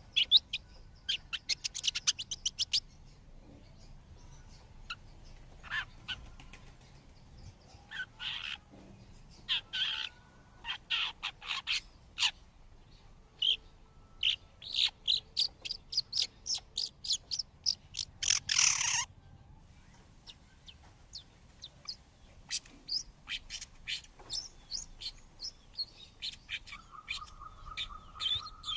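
Long-tailed shrikes chirping in clusters of short, high calls, with one louder harsh call a little past the middle and a steady trilling note near the end.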